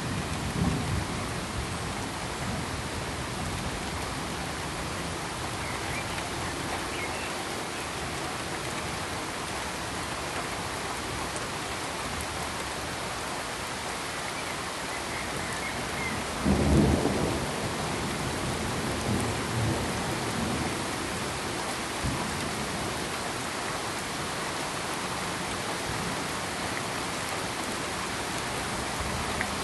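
Steady, even hiss of heavy rain, with low rolls of thunder: a short one at the start, the strongest about 17 seconds in, and weaker ones a few seconds after.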